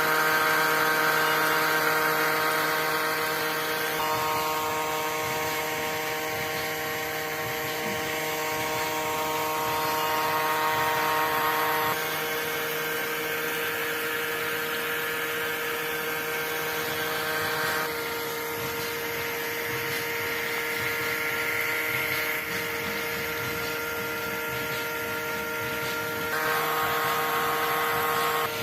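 A small motor running with a steady whine. Its pitch shifts abruptly every several seconds: about 4, 12, 18 and 26 seconds in.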